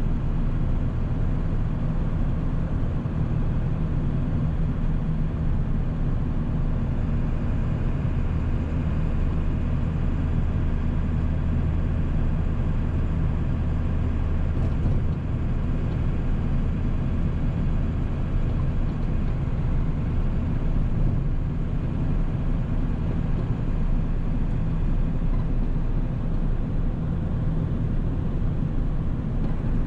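Ford 7.3 Power Stroke turbo-diesel V8 running steadily under way, a low, even engine drone with road noise.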